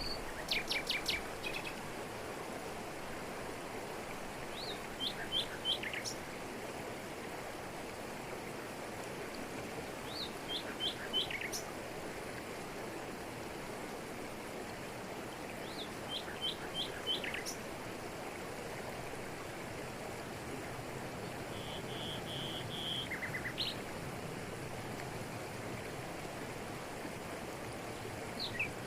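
Waterfall rushing steadily over rocks in tropical forest, with a bird repeating a short phrase of three or four quick high notes about every five or six seconds.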